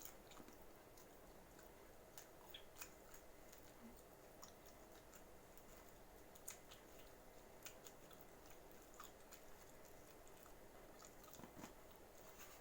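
Faint chewing of thin-crust pizza: soft, irregular mouth clicks and small crunches.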